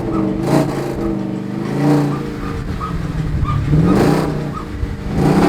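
A custom pickup truck's engine idling and being revved in several quick blips, its pitch climbing and falling back each time.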